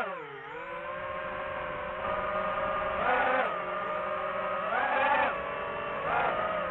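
Quadcopter drone's propeller motors whining steadily, the pitch swelling up and back down several times as the rotors speed up and slow.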